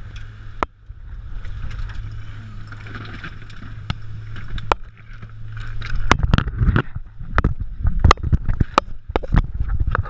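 Pontoon boat's outboard motor running with a steady low hum. About six seconds in, the hum gives way to a rapid, irregular series of knocks and thumps with low rumbling.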